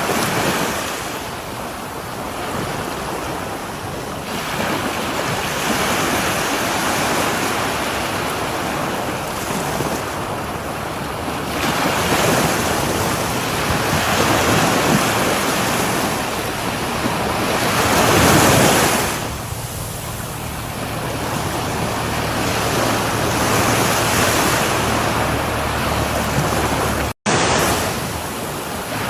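Sea waves breaking on a shore: a steady rushing surf that swells and eases every few seconds, with the biggest wave breaking about two-thirds of the way through. The sound cuts out for an instant near the end.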